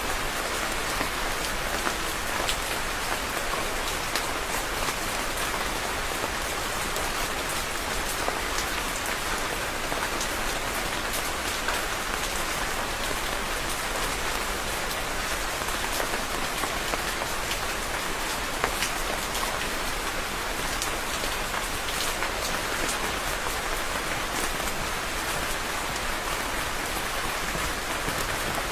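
Steady rain falling and pattering on a surface, an even hiss with many small drop splashes scattered through it.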